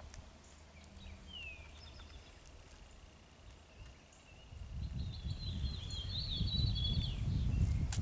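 Wild birds calling: a short downward-slurred note near the start, then a fast chattering trill from a little past halfway. A low rumble rises under them at about the same time and is the loudest sound.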